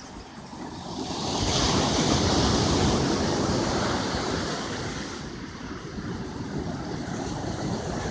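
Ocean surf: a wave breaks and washes up the beach, swelling about a second in and easing off after a few seconds into a steady wash, with wind buffeting the microphone.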